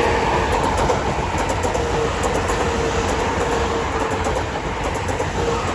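A pair of Class 465 Networker electric multiple units running through the station at speed. It is a steady rumble under a held whine, with scattered clicks from the wheels passing over the rail joints.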